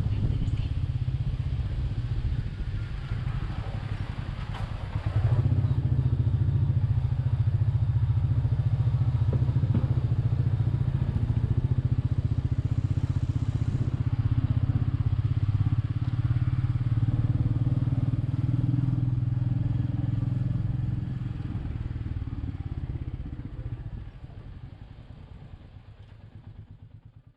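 Royal Enfield Meteor 350's single-cylinder engine running steadily while riding, dipping briefly a few seconds in and then running louder. The sound fades out near the end.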